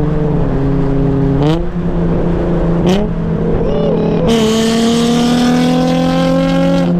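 Sports car engine and exhaust revving through downshifts, the pitch jumping up a couple of times. About four seconds in it goes to full throttle with a loud exhaust rasp, the revs climbing steadily.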